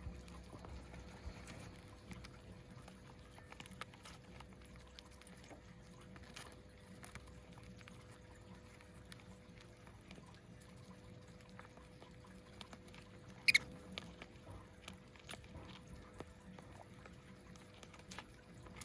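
Scattered light clicks and taps, like small items being handled or pecked at, over a faint steady hum. One short, sharp, high sound stands out about two-thirds of the way through.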